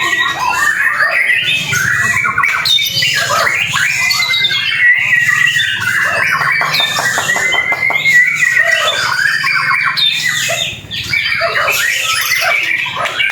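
White-rumped shama (murai batu) singing a loud, rapid, varied song of fast trills, whistles and harsh notes, with hardly a pause except a brief break near the end.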